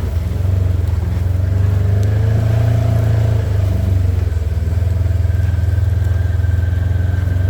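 A vehicle's engine running steadily as it is driven, a deep even drone, with a faint high whine joining about halfway through.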